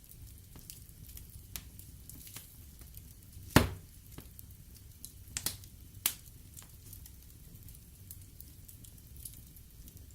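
Wood fire burning in a fireplace, crackling and hissing with a low rumble of flame. Scattered sharp pops of burning wood, the loudest about three and a half seconds in and a few more around five and six seconds.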